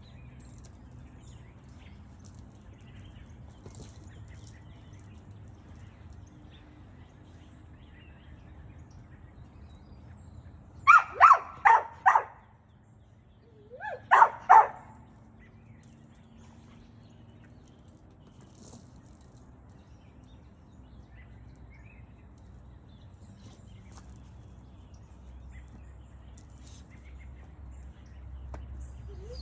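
A dog barking: a quick run of four barks about eleven seconds in, then two more a few seconds later, over a low steady background hum.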